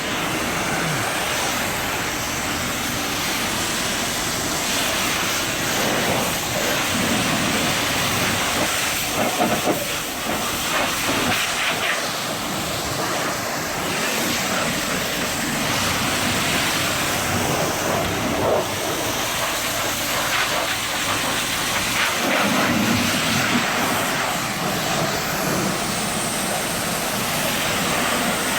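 Pressure washer spray rinsing foam off a truck: a steady hissing rush of water that swells and eases as the wand moves.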